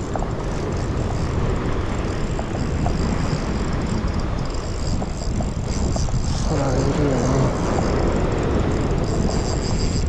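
Wind rumbling on the microphone over breaking surf, a steady loud roar heaviest in the low end.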